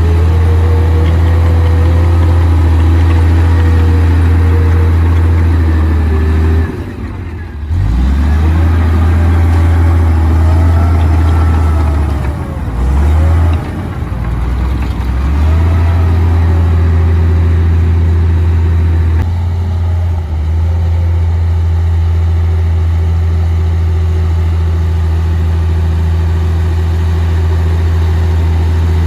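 Komatsu D58P bulldozer's diesel engine running steadily under load, its note bending up and down as the engine speed changes, with two brief drops in level, about 7 seconds in and again around 12 to 14 seconds in.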